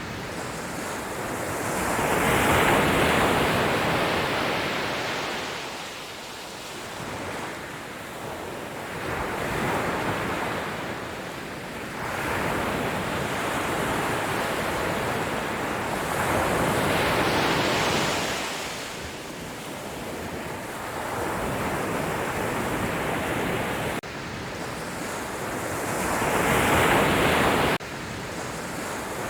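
Sea waves breaking and washing up the shore. Each surge swells and ebbs about every seven to eight seconds, four of them here.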